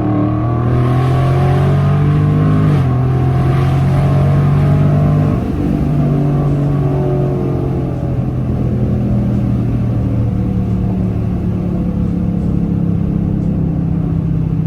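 V8 of a 2021 widebody Dodge Charger with its mid-muffler deleted, running hard at full throttle with gear changes near the start and about three seconds in. About five seconds in it eases off and settles into a steady, quieter drone.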